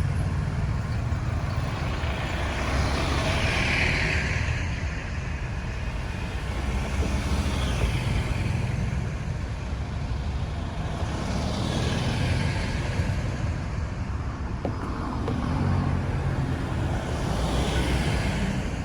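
Road traffic: a steady low engine and tyre rumble, with vehicles going past one after another, about four swells that rise and fade.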